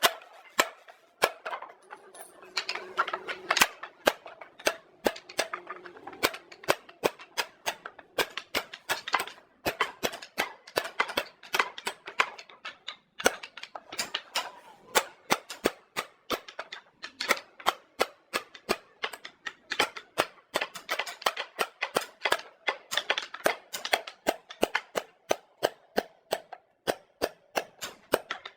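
A hammer striking wood again and again, sharp knocks at an uneven pace of about two to four a second.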